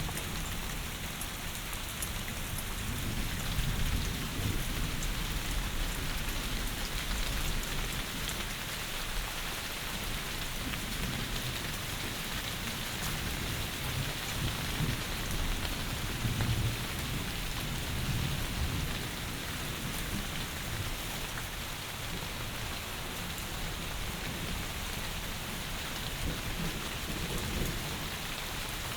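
Heavy rain falling steadily, with low rumbles of thunder swelling now and then.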